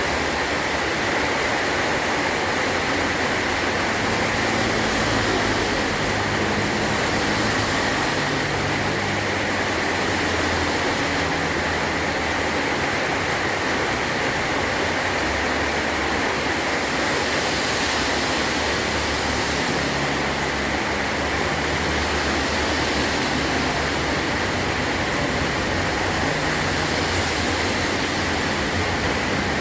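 Heavy rain drumming steadily on a metal tin roof, an even, dense hiss.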